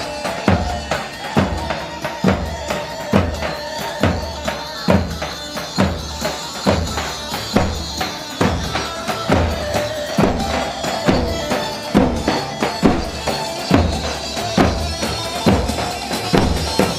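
Instrumental Turkish halay dance music played live: a keyboard melody over a steady, heavy drum beat.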